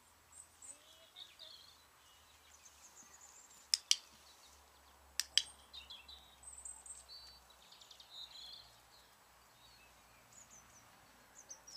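Small birds chirping and twittering, with two pairs of sharp clicks, the first about four seconds in and the second about a second and a half later.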